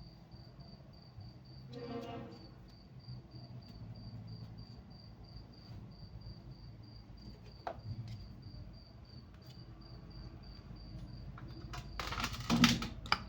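A cricket chirping steadily, about three short high chirps a second. Near the end, loud close rustling and handling as the Teflon tape is worked onto the valve fitting.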